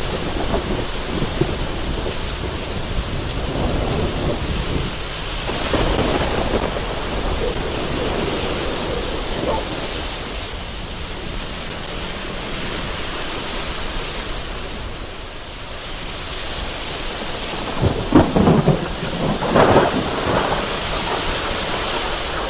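Heavy rain beating against a window through gusty wind, with thunder rumbling in the background; two short, louder thunder bursts come near the end.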